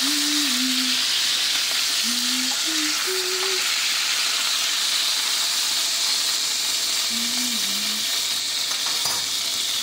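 Chicken pieces frying in hot oil in a nonstick frying pan: a steady sizzle, with a brief click near the end.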